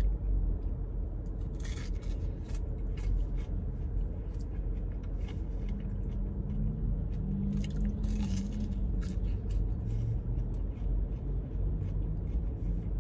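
Close-up chewing of a crispy deep-fried pie crust, with a few crunchy bites around two seconds in and again around eight seconds, over a steady low rumble inside the car.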